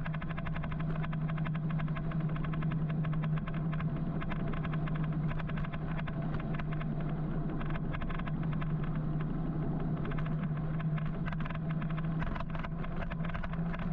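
Road and traffic noise heard from a moving electric motorcycle: a steady low hum under a constant rush of noise with fine crackles, all at an even level.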